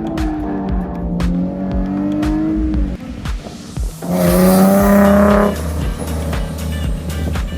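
Nissan 370Z's 3.7-litre V6 with aftermarket exhaust rising and falling in revs while drifting. About four seconds in it revs hard with a burst of tire squeal lasting over a second.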